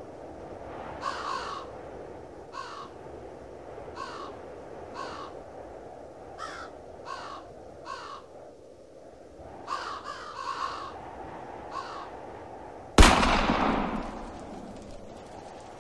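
A bird calling over and over, about a dozen short calls, some in pairs, at irregular intervals over a steady low background rush. Near the end, a sudden loud bang cuts in and fades over a second or so.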